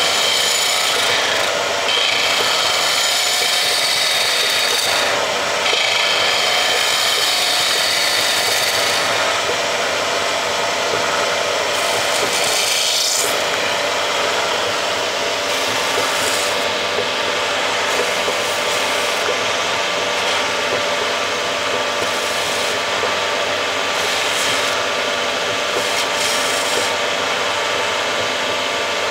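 Wood lathe running while a turning chisel cuts and scrapes the spinning wooden blank. The cutting hiss comes and goes in stretches of a few seconds, with a brief rising sweep about halfway through.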